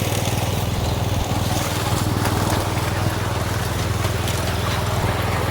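Miniature railway train running, a steady, fast, even low mechanical pulse from the locomotive.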